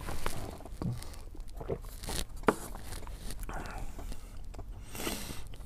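Close-up mouth sounds of someone eating a chocolate pastry tube filled with curd: chewing with scattered small clicks, one sharper about two and a half seconds in.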